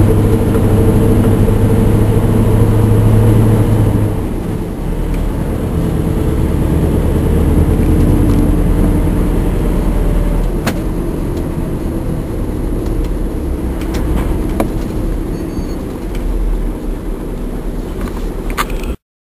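Scania R580 V8 diesel engine labouring under a near full load of about 41 tonnes on a climb. The engine note drops in pitch and level about four seconds in and runs on lower and steadier, then the sound cuts off suddenly near the end.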